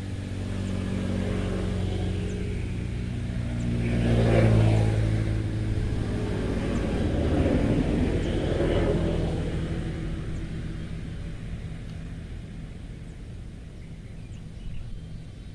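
Motor vehicles passing close by, their engines swelling to a peak about four seconds in and again about eight seconds in, then fading away.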